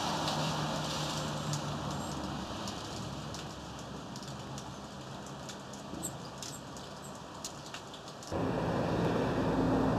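Steady outdoor background hiss with scattered light clicks and a few faint high chirps. About eight seconds in, the background noise suddenly jumps louder and stays up.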